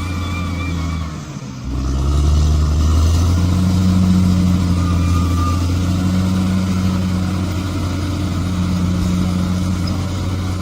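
Bulldozer's diesel engine running with a steady low drone, dipping briefly about a second in and then picking up again as it works.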